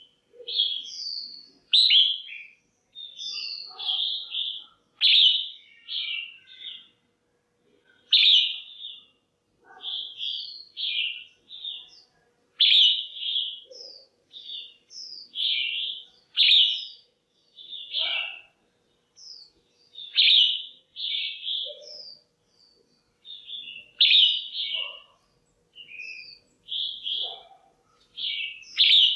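Female red-whiskered bulbul calling: short, bright chirping phrases repeated about once a second, in clusters with brief gaps.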